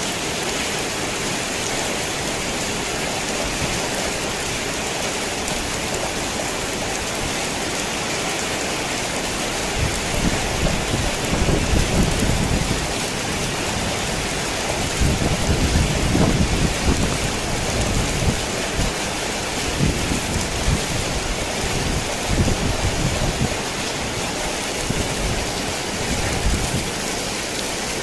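Heavy rain pouring steadily on a tin roof, with thunder rumbling in from about a third of the way in and rolling in waves until near the end.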